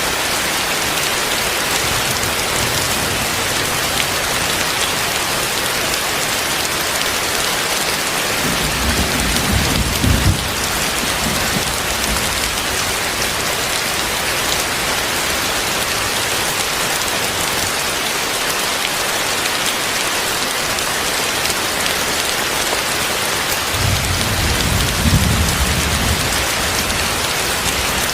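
Heavy rain falling steadily, a dense even hiss. Two low rumbles rise through it, about a third of the way in and again near the end.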